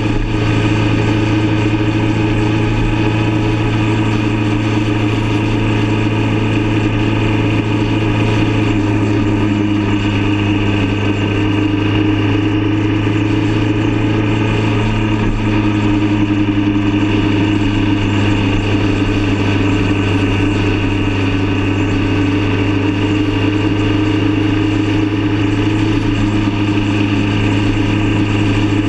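Motorcycle engine running steadily at cruising speed, recorded from the bike itself; its note changes slightly about nine seconds in, then holds steady again.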